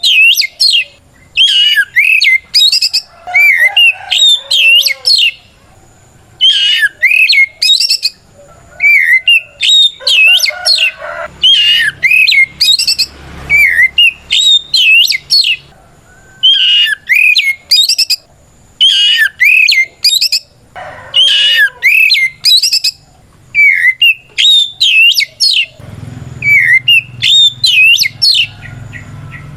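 Oriental magpie-robin (kacer) singing loudly in its full challenge song, calling out a rival: short runs of high, quickly sliding whistled notes, repeated burst after burst with brief pauses. A low rumble sits underneath about midway and again near the end.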